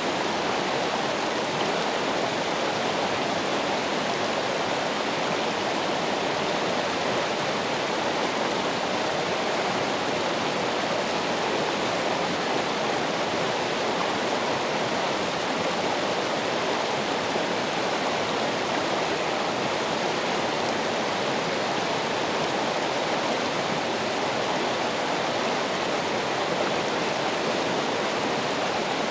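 Running water rushing steadily, an even, unchanging sound of a stream or cascade.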